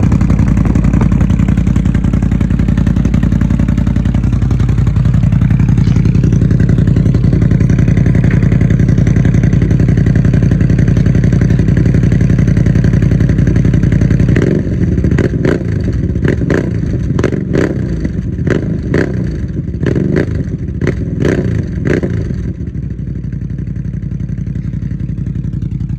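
CFMOTO CFORCE 1000 ATV's V-twin engine running through a new aftermarket exhaust, steady and loud at raised revs for the first half. It then gives a string of quick throttle blips for several seconds and drops back to a lower, quieter idle near the end.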